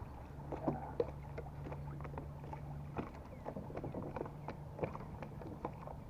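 Light ticks and knocks of water and gear against a kayak's hull, over a steady low hum.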